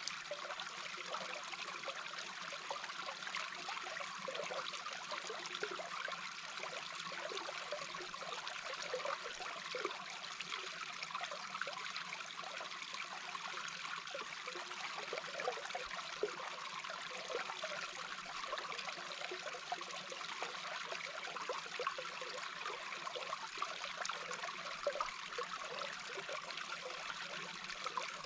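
Small babbling brook heard from underwater: a steady rush of flowing water with many small gurgles through it.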